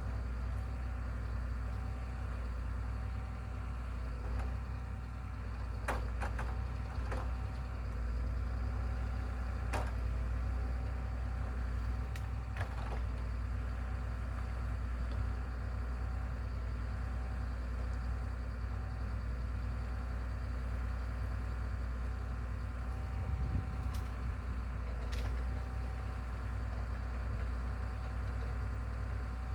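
A machine's engine running steadily with a low rumble, with several sharp clicks or knocks scattered through it.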